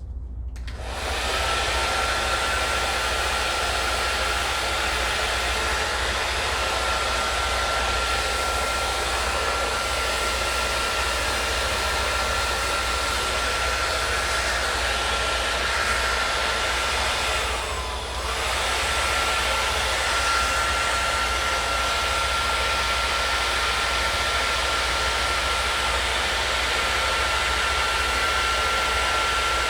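Hair dryer running on its high setting: a steady rushing blow with a constant whine, starting about half a second in. About two-thirds of the way through, its loudness and pitch dip briefly before it settles again.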